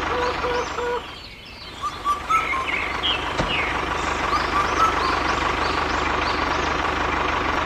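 Vehicle noise with a repeating reversing beeper for about the first second. After a brief drop in level, birds chirp repeatedly over a steady background hum.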